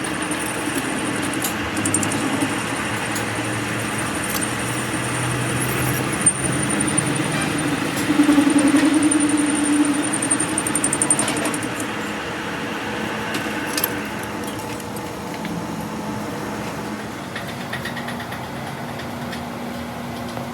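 Workshop machinery running steadily with a hum and, for the first half, a thin high whine, with scattered metallic clicks and knocks.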